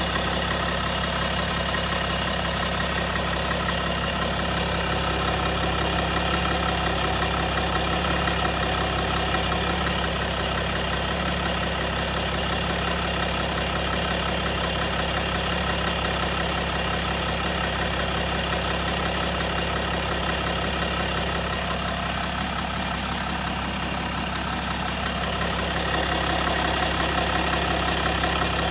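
BMW 525d's M57D30 inline-six diesel engine idling steadily, with a noise the owner takes for the timing chain.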